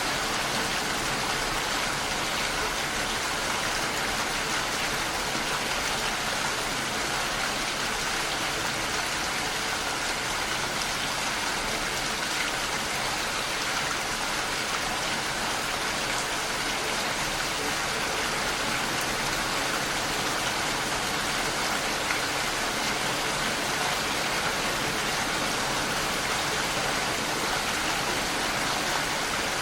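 Steady heavy rain falling, an even hiss that doesn't change.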